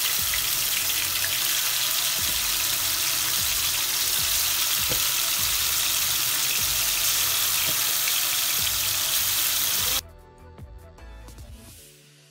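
Marinated chicken pieces sizzling as they fry in hot oil in a wok, a loud, even hiss. It cuts off suddenly about ten seconds in, and soft music starts near the end.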